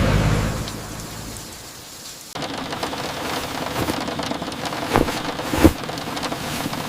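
A deep low rumble dies away over the first two seconds. Then steady rain on a surface starts abruptly, with scattered drops ticking and two louder drips about three seconds later.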